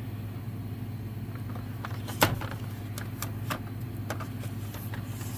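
Light clicks and taps of a diecast toy truck model being handled, with one sharper click about two seconds in, over a steady low hum.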